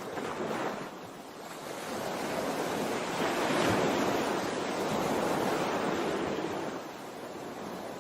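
Ocean waves washing in a steady rush of noise that swells over the first few seconds and eases off near the end.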